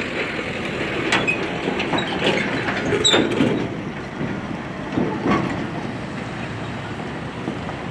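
Heavy vehicle passing close by, a steady rumble with repeated clanks and rattles.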